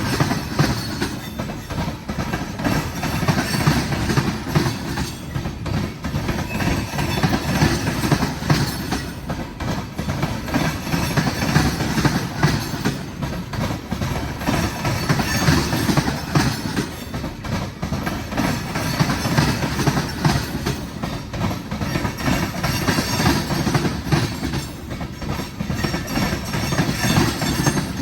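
Freight train cars rolling past: a steady rumble with a continuous clatter of wheels over the rails.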